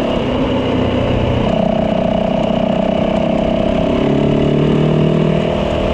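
Yamaha dirt bike engine running steadily under way, its note shifting about four seconds in.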